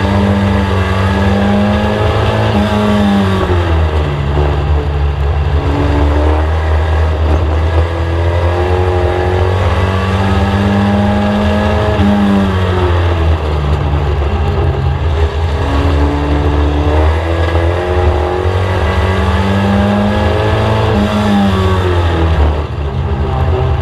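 In-car sound of a VW Mk1 Scirocco race car's four-cylinder engine driven hard around a short oval. The revs climb steadily, peak, then drop away and climb again, repeating about every ten seconds as the car accelerates down the straights and lifts for the turns.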